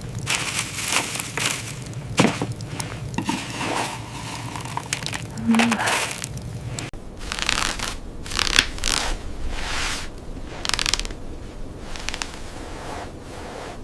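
Irregular crunching and crackling noises, a run of rough, uneven strokes.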